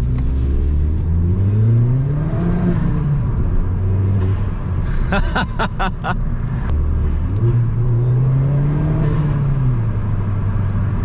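Ford Fiesta ST's turbocharged engine heard from inside the cabin, accelerating hard twice: each time the revs climb and then drop back at a gear change, with a short rapid fluttering sound between the two pulls. No wheel-bearing hum is audible; the newly replaced front-left wheel bearing is quiet.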